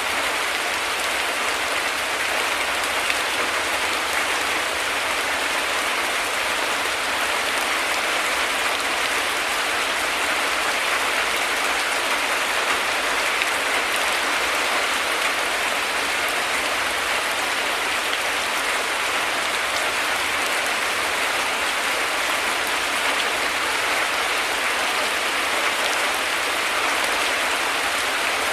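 Heavy rain falling in a steady, even hiss, with no thunder heard.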